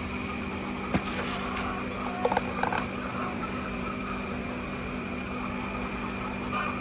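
A steady mechanical hum, with a single click about a second in and a few short pitched calls a little past two seconds in.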